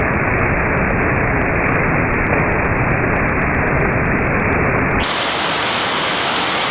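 Steady rain hiss, heard muffled and dulled while the 240 fps slow-motion footage plays slowed down. About five seconds in it turns to a brighter, full-speed hiss.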